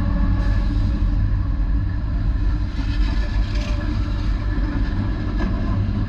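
Diesel freight train rolling past with a steady, heavy low rumble and a few steady tones from the engines.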